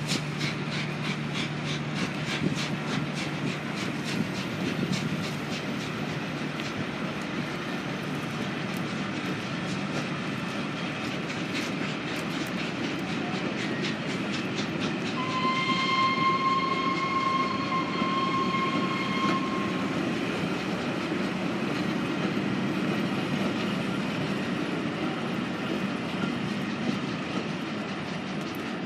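A train running through a station, its wheels clicking fast and evenly over the rail joints. About halfway through, a single steady warning note sounds for about four seconds.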